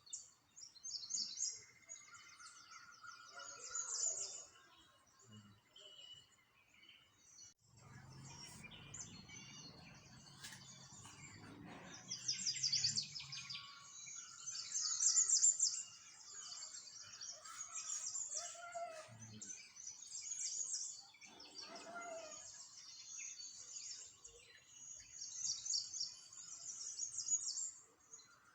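Several small birds singing and chirping, with fast high trills repeating throughout and lower chirps in between. A low rumble runs underneath from about eight to thirteen seconds in.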